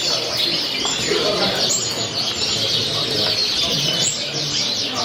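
A hall full of caged show birds chirping at once, a dense, continuous twittering, with a murmur of people's voices underneath.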